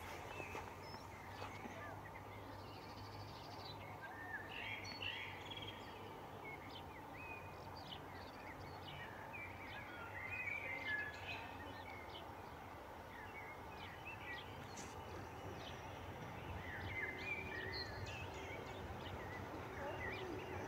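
Small birds singing and calling, short chirps and trills, over faint steady outdoor background noise. A faint steady hum joins in near the end.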